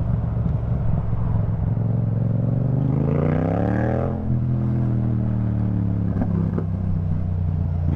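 Yamaha MT-07's parallel-twin engine running through an Akrapovic titanium exhaust, rising in pitch as the bike accelerates, dropping at a gear change about four seconds in, then running steadily.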